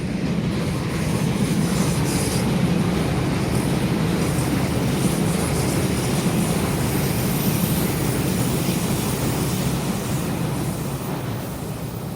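Taiwan Railways Taroko Express, a TEMU1000 tilting electric multiple unit, passing at speed: a steady, loud rush of wheel and rail noise that eases off near the end.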